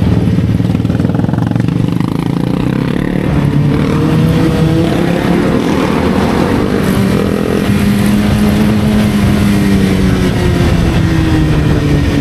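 Motorcycle engine running while under way, its pitch climbing about a third of the way in and then slowly falling as it eases off.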